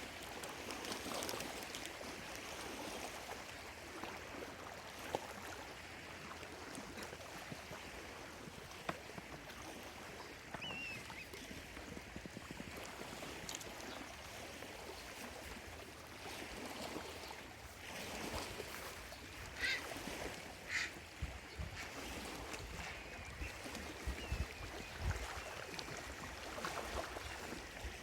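Small waves lapping steadily on a lake shore, with a few short bird calls: a chirp about ten seconds in, two brief calls around twenty seconds, and some faint chirps after. A few low thumps come in the second half.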